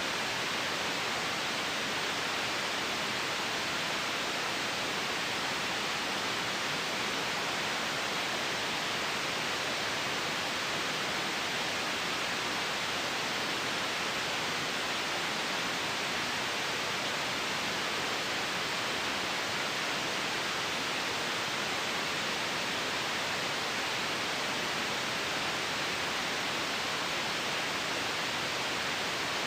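Steady synthetic white noise: an even, unchanging hiss with no rhythm or events.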